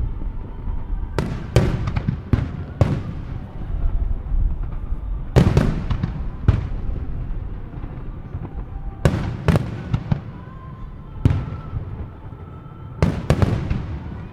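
Aerial firework shells bursting: about a dozen loud bangs in clusters of two to four, each trailing off into a rumbling echo, over a steady low rumble between the salvos.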